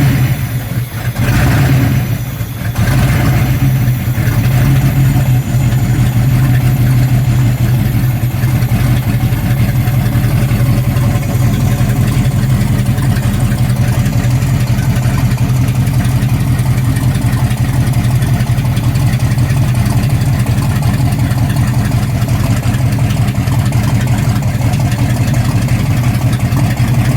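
A 1960s Mopar super stock drag car's V8 starting up with a few revs in the first three seconds, then idling loudly and steadily.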